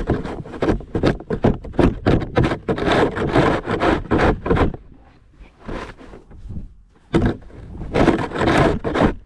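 Snow shovel scraping and pushing snow on a driveway: a quick run of rough scraping strokes for the first half, then a few separate strokes with pauses between them.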